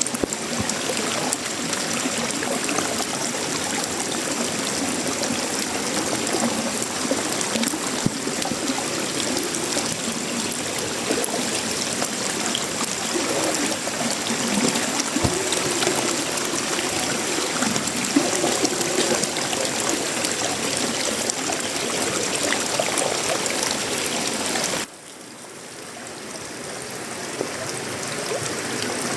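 Steady tropical rain falling on a sheet-metal roof, wood and leaves. About 25 seconds in it drops abruptly quieter, then swells back up over a few seconds.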